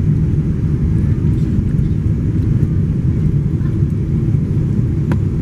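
Passenger plane's steady low rumble during landing, with a sharp click about five seconds in.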